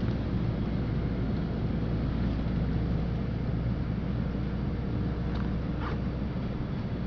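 Steady low rumble of a LiAZ-5292 city bus heard from inside the cabin: diesel engine and running noise. Two brief high squeaks come about five and a half and six seconds in.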